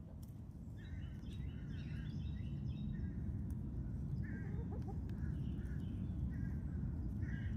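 Outdoor backyard ambience: a steady low rumble under repeated short bird calls, a few faint lower calls near the middle.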